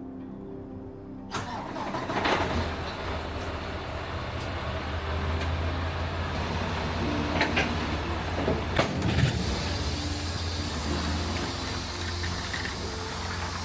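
A vehicle engine starts up about a second in and keeps running, with background music playing along and a few light clicks.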